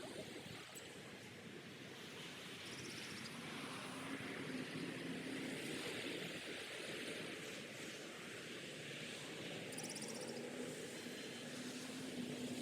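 Steady outdoor background hiss, with a faint low hum that comes in twice, a few seconds apart.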